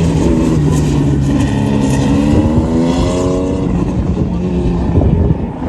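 Autocross car's engine running hard on course, its pitch climbing and dropping as it accelerates and lifts.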